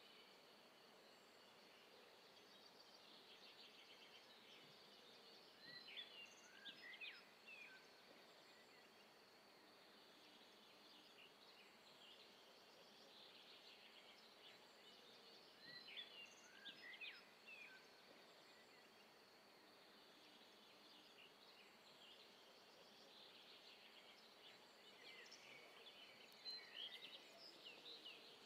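Faint outdoor ambience: a steady low hiss with birds chirping in three short bursts spaced about ten seconds apart.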